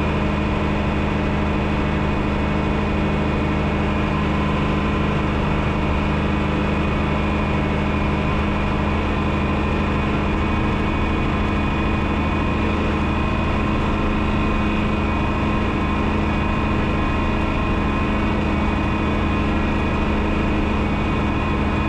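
1972 John Deere 6030 tractor's turbocharged six-cylinder diesel running at a steady speed, an even drone that does not change.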